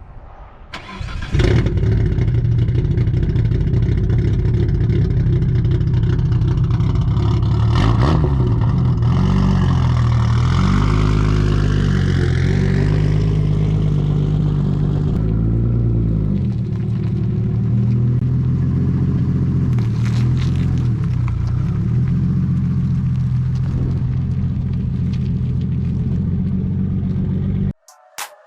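Nissan Skyline R32 GT-R's forged RB26 twin-turbo straight-six starting about a second in, then idling with a steady lumpy note. In the middle its pitch rises and falls a few times before settling back to idle, and the sound stops abruptly near the end.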